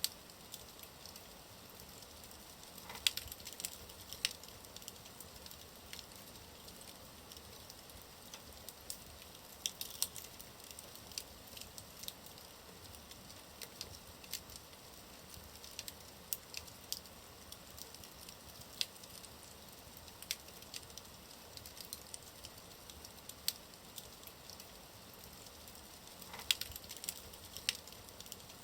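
Wood fire burning in a fireplace, with irregular crackles and pops over a steady faint hiss.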